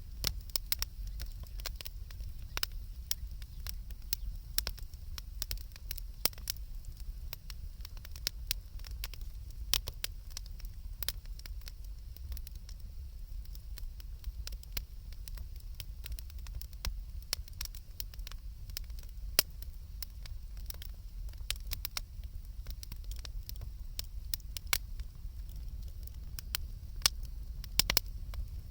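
Wood fire crackling: a steady, irregular run of sharp pops and snaps over a low rumble.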